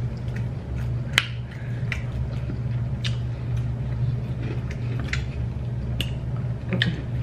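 Close-miked eating of fried chicken: a handful of sharp, irregular wet clicks and smacks from chewing, the loudest a little over a second in, over a steady low hum.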